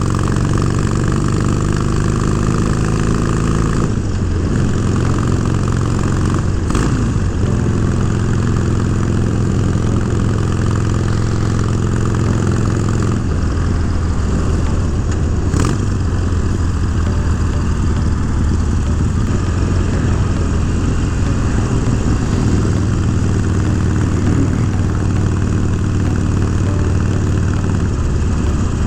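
Harley-Davidson Forty-Eight Special's V-twin running on the move through Vance & Hines Twin Slash mufflers with quiet baffles, its note changing about 4 seconds in and again about 13 seconds in. Two short clicks are heard along the way.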